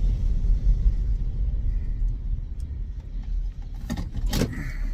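Low, steady rumble inside a car, with a few sharp clicks about four seconds in.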